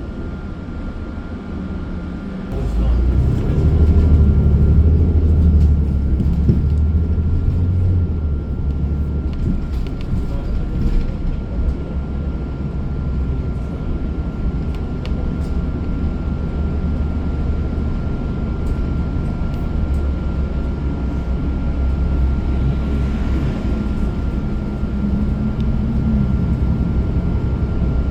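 Engine and road rumble of a bus heard from inside the cabin, growing louder about two and a half seconds in, with its pitch climbing for a few seconds as it speeds up, then running steadily. A faint steady whine sits above the rumble.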